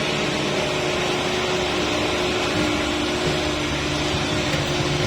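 Truck engine running with a steady drone: an even mechanical hum over a low rumble, with no break or change in pitch.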